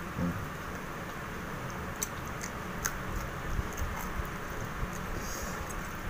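Mouth eating fried duck: scattered faint clicks and smacks of chewing, over a steady low background hum.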